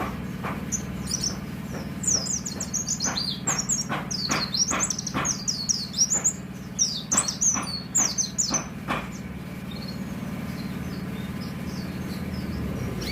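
White-eye (pleci) singing a rapid run of high, sliding chirps for about seven seconds, then falling quiet. A steady low hum runs underneath.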